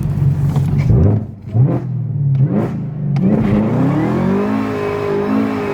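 Car engine revving: a couple of quick throttle blips, then the revs climb and are held high near the end.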